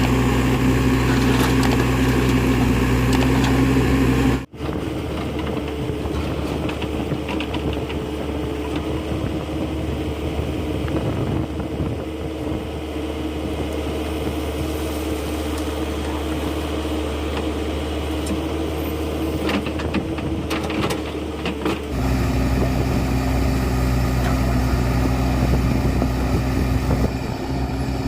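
Diesel engines of a backhoe loader and tractors running steadily. The sound changes abruptly twice: the low engine rumble drops away after about four seconds and returns strongly near the end.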